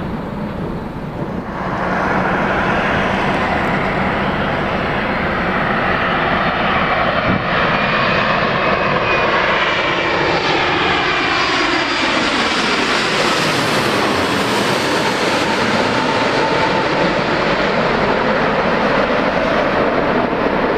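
Jet airliner flying over low on landing approach: engine noise builds sharply about two seconds in and stays loud, with a whooshing tone that sweeps down and then back up as the aircraft passes.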